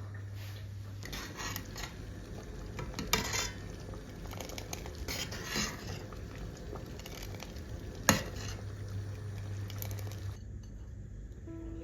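Kitchen utensils at work: a spoon or cutlery stirring and scraping, with sharp clinks against a pot or dish about three and eight seconds in, over a low steady hum.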